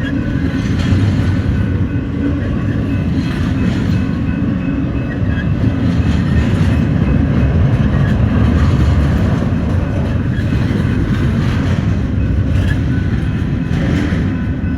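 Norfolk Southern freight train cars rolling past close by: a steady heavy rumble with the wheels clacking over the rail joints at intervals.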